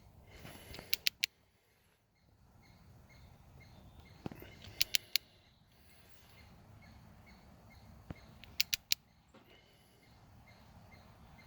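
Ratchet wrench on a spark plug socket clicking in three short bursts of about three quick clicks each, as a spark plug is tightened down.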